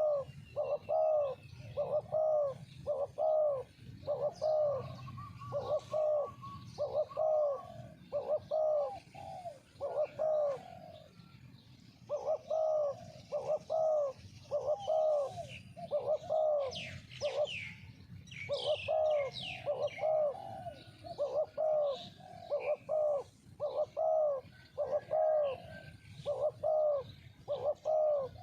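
Spotted doves cooing: a long run of short, low, repeated coos, about one or two a second, broken by a few brief pauses. Quick high chirps from smaller birds come in about halfway through.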